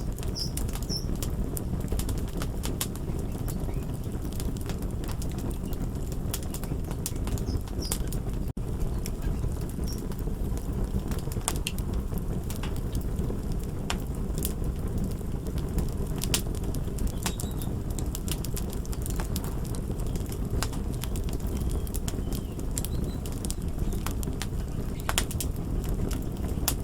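Fire crackling: a steady low rumble with irregular sharp pops and snaps, with a momentary dropout about eight seconds in.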